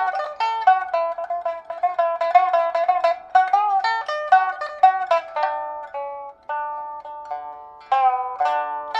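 Pipa played solo: a quick run of plucked notes with bent, sliding pitches, easing about five seconds in into a few longer held notes, then quickening again near the end.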